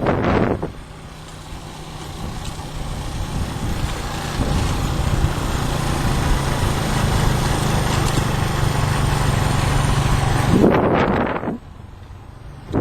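A motor vehicle engine running with a steady low hum, cut by a short loud rush of noise about ten and a half seconds in.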